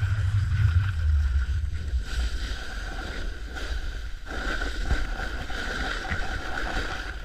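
Wind buffeting the microphone over the hiss of a snowboard sliding and scraping on snow while riding downhill; the low wind rumble is heaviest in the first second or so.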